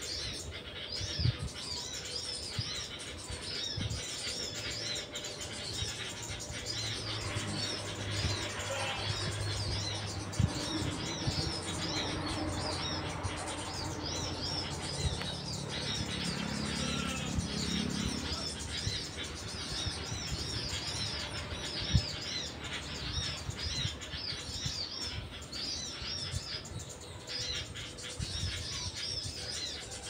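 Small birds chirping continuously in a rapid run of high, arching notes. A low hum rises under them in the middle.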